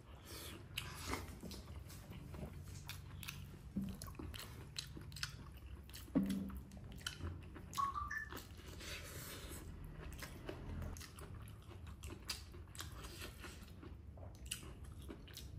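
A person eating rice and curry by hand, chewing close to the microphone, with many short wet mouth clicks.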